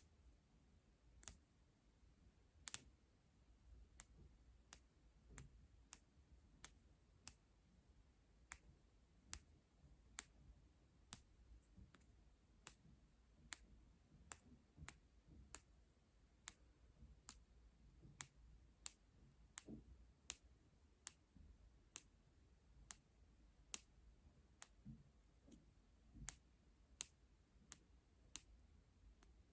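Faint, crisp clicks repeating at about two a second, slightly irregular, made as an ASMR trigger.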